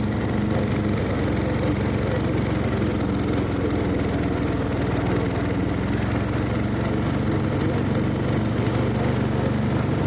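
Briggs & Stratton engine of a riding lawn mower running steadily under load while mowing grass, with no change in speed.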